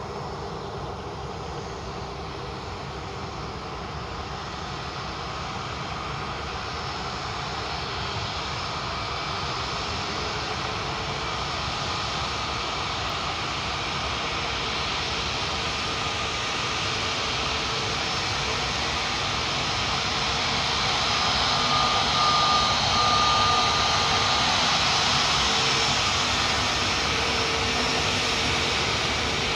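Jet airliner engines running, growing steadily louder to a peak a little over two-thirds of the way through, then easing slightly.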